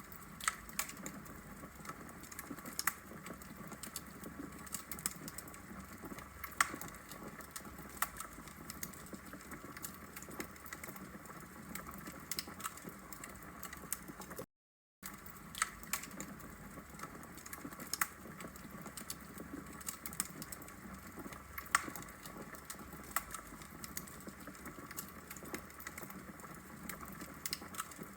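Logs burning in a fireplace: irregular sharp crackles and pops over a soft steady hiss of the fire. The sound cuts out for about half a second halfway through.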